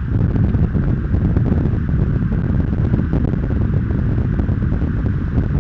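Loud, steady low rumbling noise on the camera microphone, with no clear pitch or rhythm.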